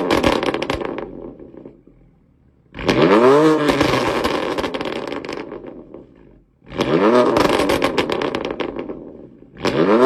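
BMW M4 GTS's twin-turbo straight-six being revved in short blips, three times about four seconds apart after an earlier rev dies away. Each rev climbs quickly and falls off, with popping and crackling from the exhaust as it drops.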